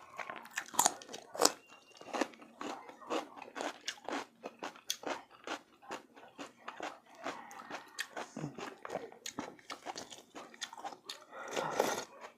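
Close-up chewing and biting of soft braised pork hock: irregular wet mouth clicks and smacks, several a second.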